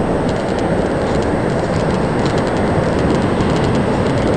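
Steady, loud rush of ocean surf blended with wind on the microphone, with faint high ticks scattered through it.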